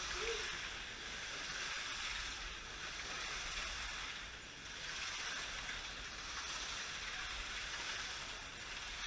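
Slot cars running on the track: a steady hissing whir of small electric motors and tyres that swells and fades as the cars pass, over a low hum.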